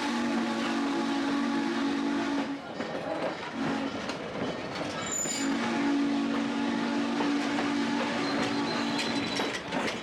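Steam locomotive whistle sounding a low chord: a long blast of about two and a half seconds, a brief short toot, then another long blast of about five seconds, over the noise of the train.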